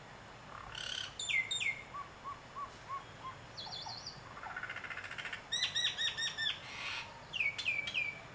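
Birds calling. The calls are a pair of whistles sliding down in pitch, then a run of five short low notes, a brief high trill, a rapid string of about seven notes, and near the end three more downward-sliding whistles.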